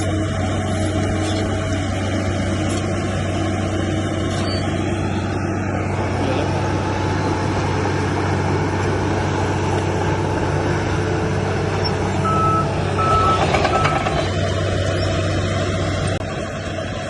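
Heavy diesel earthmoving machinery running steadily. A low repeated beeping sounds at the start, and three short reversing-alarm beeps come about twelve seconds in.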